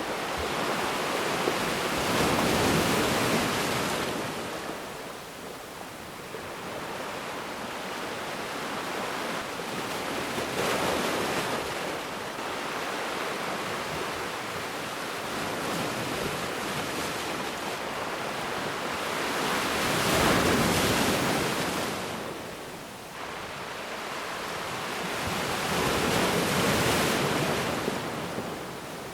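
Ocean surf: waves breaking and washing back, four waves swelling up and ebbing away several seconds apart.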